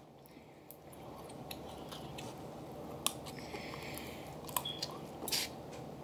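A person eating snow crab meat: soft chewing and wet mouth smacks, a few sharper ones in the second half, over a low steady room hum.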